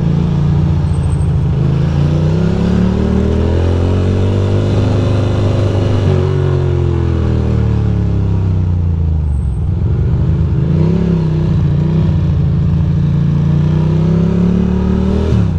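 Ducati Monster's V-twin engine accelerating on the road, its pitch climbing, easing off about halfway through, then pulling up again before dropping off near the end.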